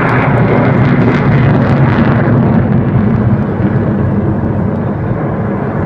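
Aircraft passing, a loud rumble with a higher hiss that fades after about two seconds while the low rumble carries on.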